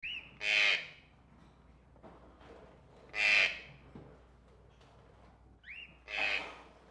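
Caged tropical birds calling: three loud, harsh squawks about three seconds apart. The first and last each come just after a short whistled note that rises and falls, over faint chatter from other birds.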